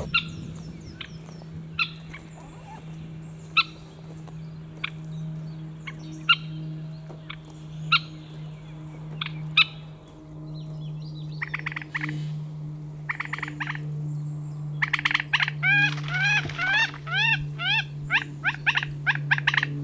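Birds calling at a pond over a steady low hum. Scattered short, sharp chirps come first, then from about midway a fast series of repeated arched calls, about three a second.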